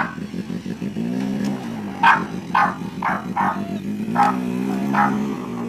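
A dog barking, about six short barks from about two seconds in, with a lower wavering hum heard twice alongside.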